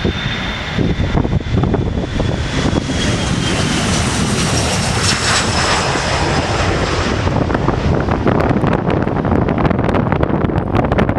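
Jet airliner passing close by, its engines' high whine sliding down in pitch, loudest about five seconds in and fading by about seven seconds, over a steady low rumble. Wind buffets the microphone throughout.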